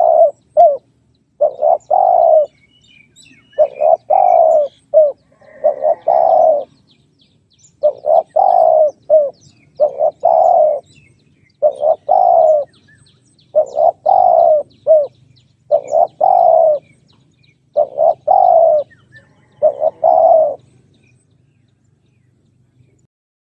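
Spotted dove cooing in short repeated phrases of a few notes, a new phrase every second or two, falling silent near the end. Small birds chirp faintly behind it.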